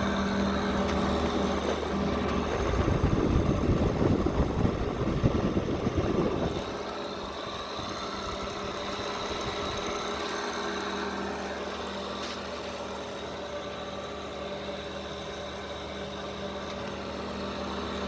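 GE window air conditioner running on high fan in cool mode, a steady hum with a low drone. For a few seconds early on it runs louder and rougher with a rattling rumble, which the owner guesses comes from bad bearings, then settles to steadier, quieter running.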